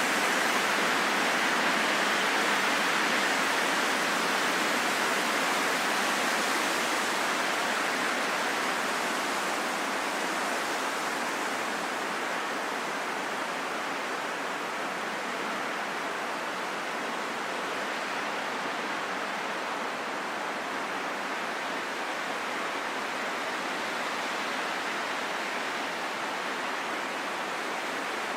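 Steady rain falling, an even hiss with no single drops or other sounds standing out, easing a little over the first dozen seconds and then holding steady.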